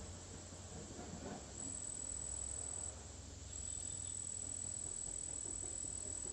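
An insect trilling: one high, steady, even-pitched trill in two stretches, the first about a second long, the second about three seconds and running almost to the end, over a low background hum.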